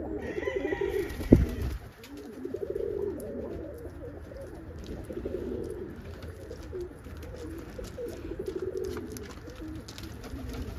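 Domestic pigeons cooing, several low pulsing coos one after another and overlapping. A sharp knock about a second in is the loudest moment.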